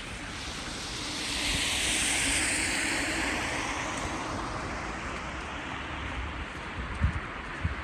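A vehicle passing on a slushy, snow-covered street: the tyre hiss swells over about two seconds, then fades slowly. A few faint knocks come near the end.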